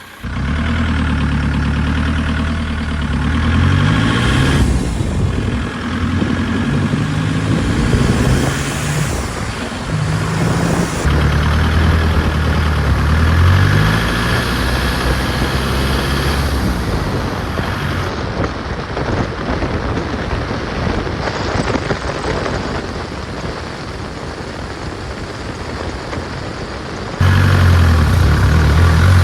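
Volkswagen TDI turbo-diesel vehicle on the road, its engine rising in pitch again and again as it accelerates. The sound changes abruptly a few times. The engine has just had its head gasket and head studs replaced.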